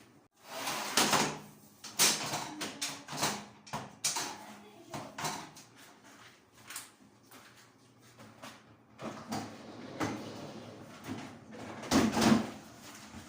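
A run of irregular short scraping and rubbing strokes with knocks from bathroom cleaning, loudest about a second in and again near the end.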